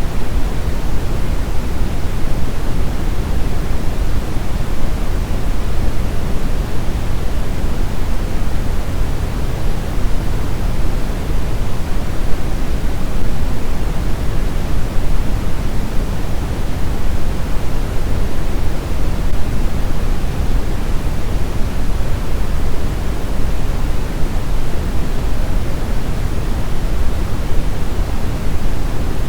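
Brown noise: a steady, even rushing hiss weighted heavily toward the low end, with no tones, breaks or changes.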